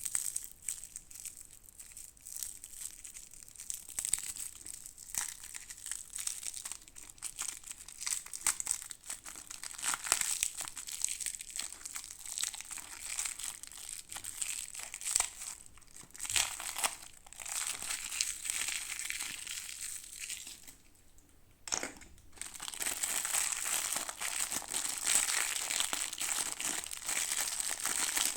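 Plastic toy packaging crinkling as it is handled and opened close up, with many small crackles, a short pause about three quarters of the way through, then denser, steadier crinkling.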